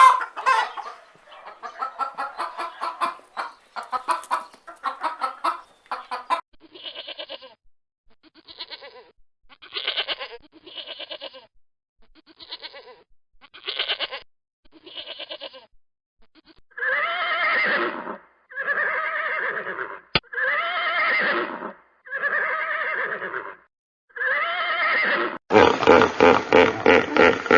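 A run of farm animal calls. Chickens cluck rapidly at first, then a series of short, wavering bleats is followed by five longer bleats. Near the end a different, denser animal sound takes over.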